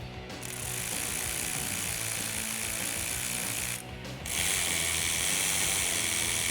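Ratchet clicking rapidly in two long runs, with a short pause a little under four seconds in, as the exhaust tip clamps are tightened with a large hex (Allen) bit. Quiet background music underneath.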